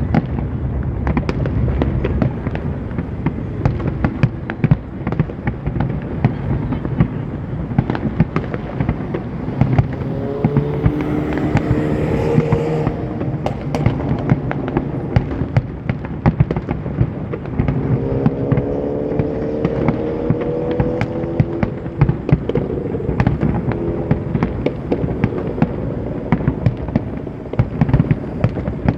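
Fireworks display going off in rapid succession: many sharp bangs and crackles over a steady low rumble of distant booms.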